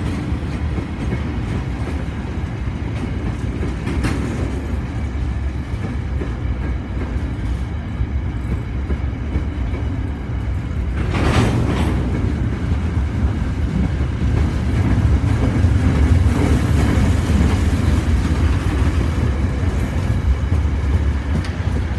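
Diesel-electric DXC class locomotives hauling a work train, a steady low engine rumble with wagons rolling over the rails. There is a brief noisy burst about eleven seconds in, and the sound grows louder from about fourteen seconds on.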